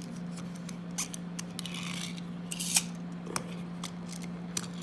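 Push-down-and-go toy vehicle's spring-and-gear mechanism being pressed and released: scattered clicks, a brief whirr about two seconds in, and a sharp click near the middle, the loudest sound.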